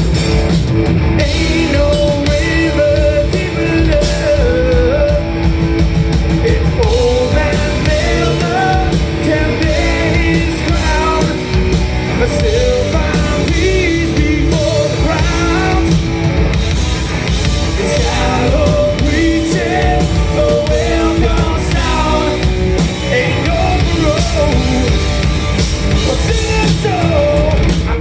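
Live rock band playing: drum kit, guitars and bass, with a lead vocal singing over them.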